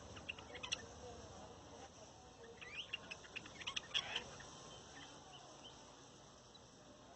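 Faint bird chirps: a few short high calls just after the start, then a quicker cluster of chirps and short rising notes about three to four seconds in.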